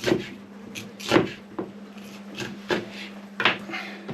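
Irregular knocks and thumps of lamb being cut up and handled on a butcher's bench, about six in four seconds, the loudest a little over a second in, over a steady low hum.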